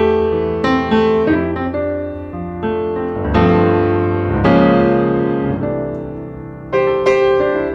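Background piano music: chords struck and left to ring and fade.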